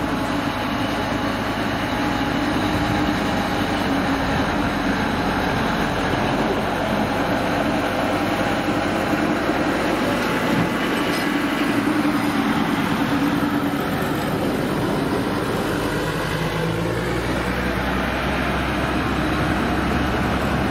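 Narrow-gauge park railway train running with a steady mechanical rumble; a deeper hum comes in near the end.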